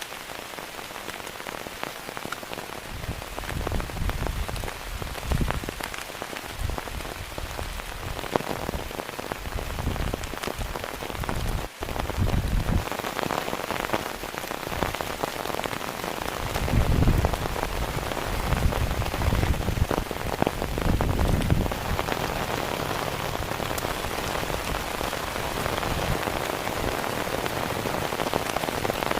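Heavy rain pouring steadily, with many close drops ticking, while gusts of strong wind buffet the microphone in irregular low rumbles, heaviest a little past the middle.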